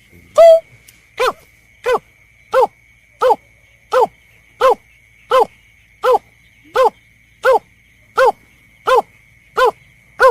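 Lure recording of a berkik (snipe) call: a short downward-bending note repeated evenly about one and a half times a second, over a faint steady high whine.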